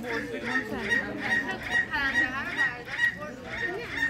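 A bird calling in a rapid series of short, high notes, about four a second, with faint voices beneath.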